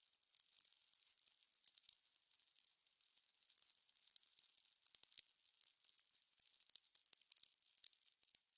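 Fire crackling: a steady soft hiss with many irregular sharp pops and snaps.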